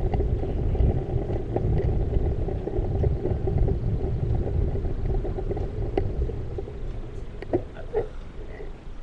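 Steady low rumble of wind buffeting and tyre noise from a bicycle being ridden, with a few small clicks near the end.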